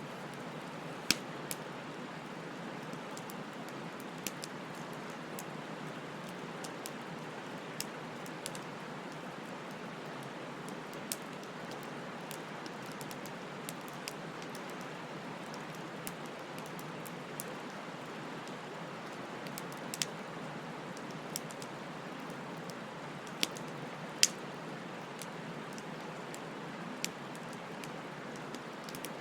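Wood fire burning, with a steady hiss and scattered sharp crackles and pops from the burning wood, a few louder snaps about a second in and again around two-thirds through.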